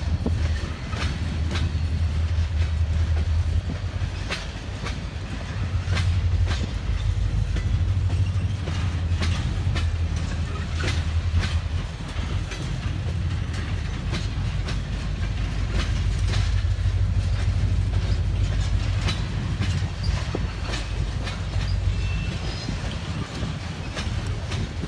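Freight train of empty flatcars and boxcars rolling past: a steady low rumble with repeated clicks of the wheels crossing rail joints.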